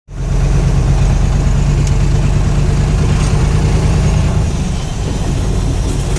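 Mercedes-Benz SK 2435 truck's diesel engine running steadily with a deep, low hum, easing off slightly about five seconds in.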